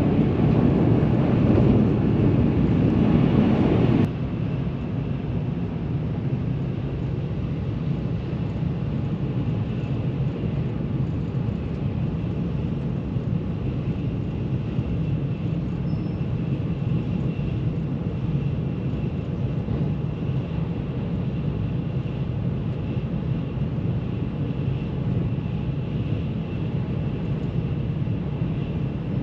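Tokaido Shinkansen bullet train running at high speed, about 170 mph, heard from inside the passenger car: a steady rumble and rush with a faint high whine. The rumble is louder for the first four seconds, then drops suddenly to a quieter, even level.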